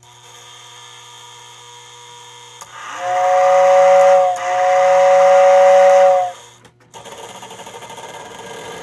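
Lionel 746W tender's motor-driven air whistle blowing two long two-note blasts, one straight after the other, over a low steady hum. Afterwards a small electric motor starts running.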